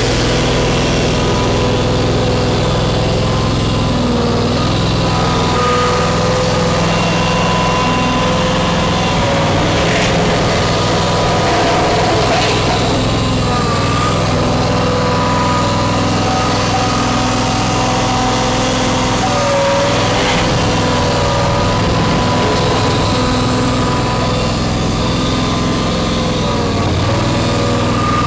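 John Deere X585 4x4 garden tractor's engine running steadily while the tractor plows wet snow, with faint whining tones over the engine note that waver slightly.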